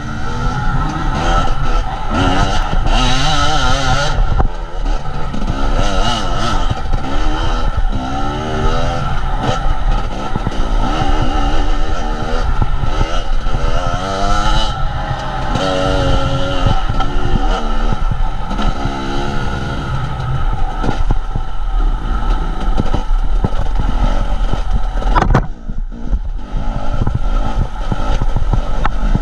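A motor vehicle's engine running, its pitch repeatedly rising and falling as it revs, with a sharp click about 25 seconds in.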